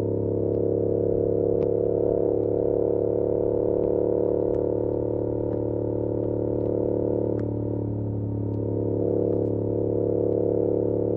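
2022 Yamaha R7's parallel-twin engine through an SC-Project CR-T exhaust, running at a steady cruise as heard from a recorder inside a backpack, with scattered light ticks of bag straps slapping against the backpack.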